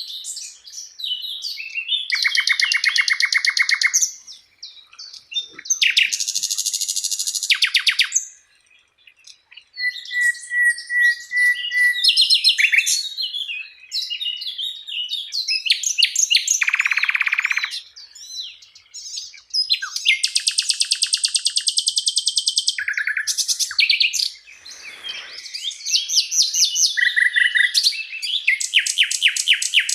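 Songbird masteran (tutor-song recording): loud, high-pitched phrases of rapid trills and buzzy rattling notes, each lasting about two seconds, with a short series of even whistled notes partway through and brief pauses between phrases.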